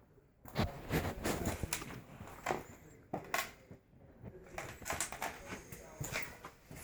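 A run of irregular knocks, clicks and clatters, closely spaced for the first couple of seconds and then more scattered, with a small-room echo.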